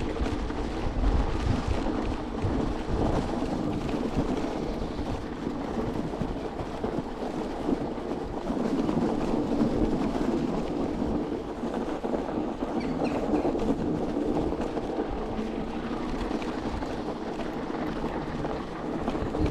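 Wind buffeting the microphone over the steady rolling and motor noise of an electric vehicle being ridden through snow.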